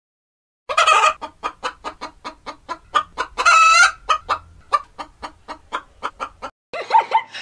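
Rooster clucking: a loud squawk, then a quick, even run of short clucks about four a second, with one longer drawn-out call about halfway. Near the end it cuts to a different animal's calls.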